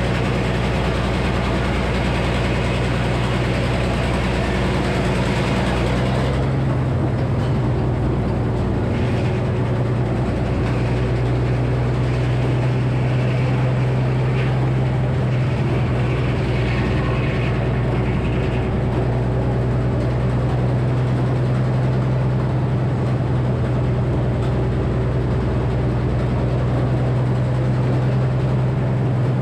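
Frick sawmill with a 48-inch circular saw running steadily under engine power. The note shifts about six seconds in and then holds steady.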